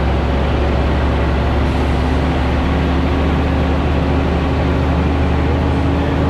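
Scania G440 truck's 13-litre six-cylinder diesel running steadily as the heavily loaded rig, about 110 t gross, descends a grade. It makes a heavy low drone, with a tone that rises slowly in pitch toward the end.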